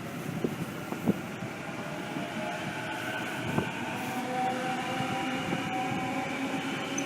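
Sydney electric suburban train running through the station: a whine of several steady motor tones over a rumble of wheels on rail, with a few irregular clicks.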